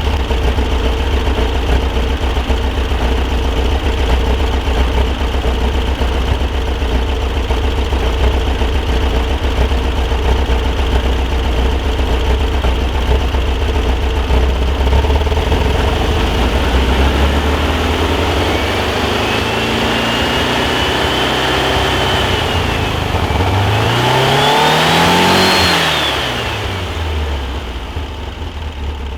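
Volkswagen Super Beetle's 1641cc air-cooled flat-four, breathing through a merged header and quiet pack muffler, idling steadily, then revved up in two climbing steps and let fall back to idle near the end. Warm, this engine makes a noise the owner says sounds like pre-detonation at cylinder three, though changing the ignition timing does not change it.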